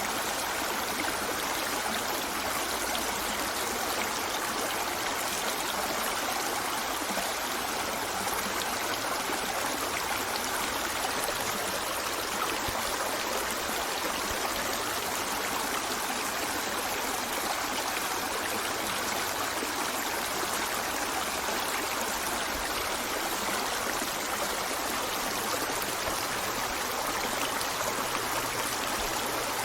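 River water flowing steadily over rocks, a continuous rushing and trickling with no change in level.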